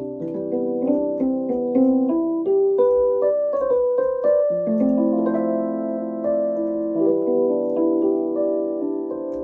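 Electric piano playing slow chords, with notes struck one after another for the first few seconds and then a chord held from about halfway.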